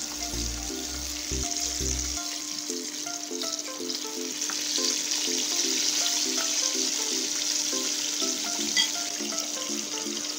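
Coated chicken fillets sizzling steadily as they fry in hot oil, just turned over, with light background music playing.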